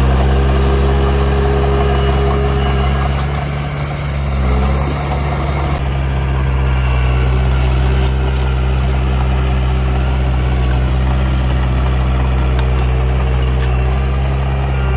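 Heavy diesel engine of earthmoving machinery running steadily, easing off briefly about four seconds in.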